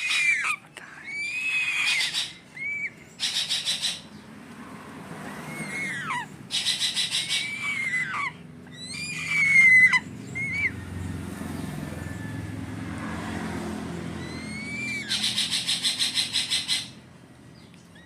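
Grey-headed fish eagle chick calling: high whistled calls that rise and then drop in pitch, broken by three runs of fast, pulsing chitters at about six a second. These are a hungry chick's begging calls while being hand-fed.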